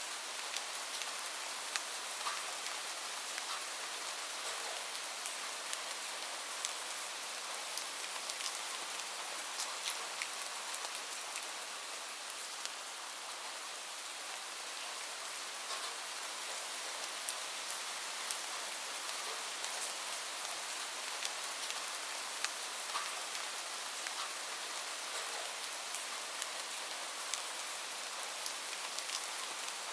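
Steady rain falling on a surface, an even hiss scattered with the ticks of individual drops striking.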